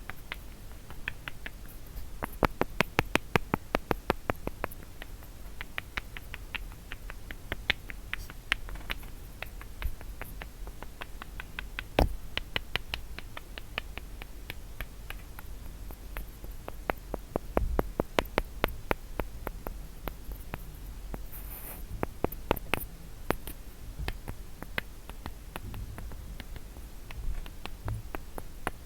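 Fingers tapping on a wooden block close to the microphone: dry, crisp clicks in quick runs of several taps a second, with sparser single taps between the runs.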